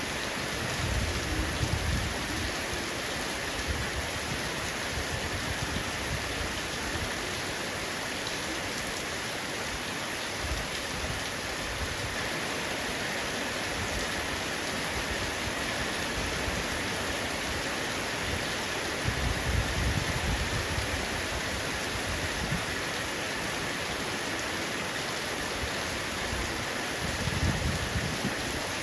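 Heavy rain falling steadily on a roof, a dense even hiss of raindrops. Three brief low rumbles rise under it: about a second in, around two-thirds of the way through, and near the end.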